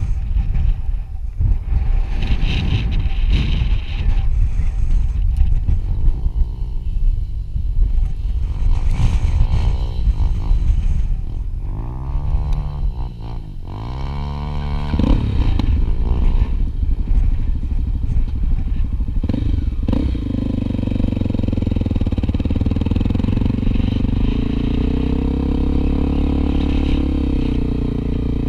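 Trail motorcycle engine running on a dirt track. The revs drop and climb again a few times about halfway through, then hold a steady pull. Low rumble and rattle of the ride sit underneath.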